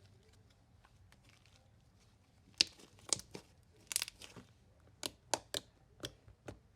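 Marshmallow slime being worked by hand, with a quick string of sharp pops and crackles that starts about two and a half seconds in.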